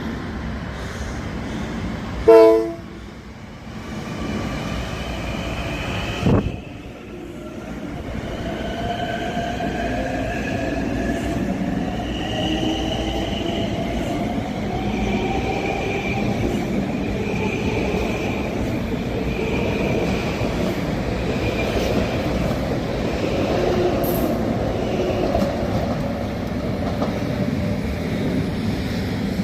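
Train pulling out of a station. About two seconds in there is a short, loud horn blast, and a knock follows a few seconds later. After that the train runs steadily, with a faint whine that rises as it gathers speed.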